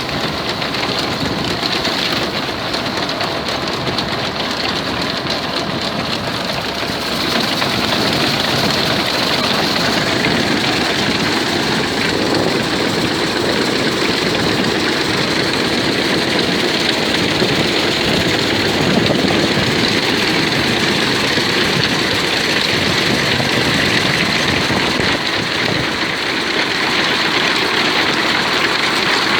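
Vintage farm tractor engine running steadily, a little louder from about seven seconds in.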